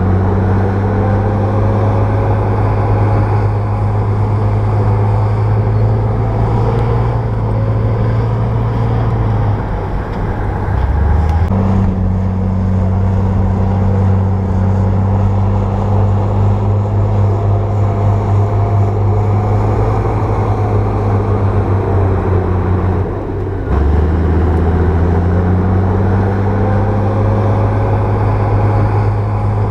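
Bulldozer's diesel engine running steadily as the machine works. The engine note drops and picks back up twice, about ten seconds in and again near twenty-four seconds.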